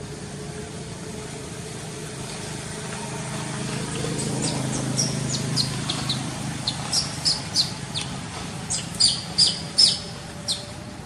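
A bird calling in a long series of short, sharp chirps, each falling in pitch, starting about four seconds in and loudest near the end. Under it a low rumble swells and fades midway.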